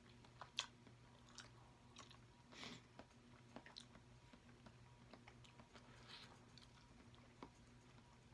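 Faint close-miked chewing of a peeled boiled egg, with scattered soft wet clicks and lip smacks.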